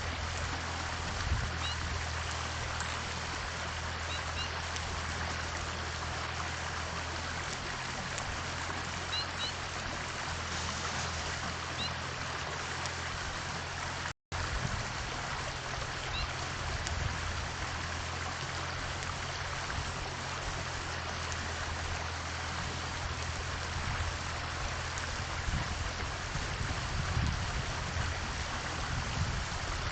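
Steady rushing noise with a low hum under it, and a few faint, short bird chirps. The sound drops out for an instant about halfway through.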